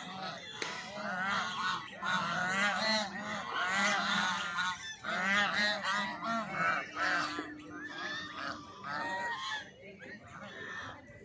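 A flock of geese honking, many calls overlapping one another, thinning out somewhat near the end.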